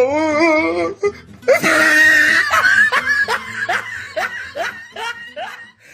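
Laughing sound effect: a drawn-out wavering voice, then a run of short laughs, about three a second, that fade out near the end.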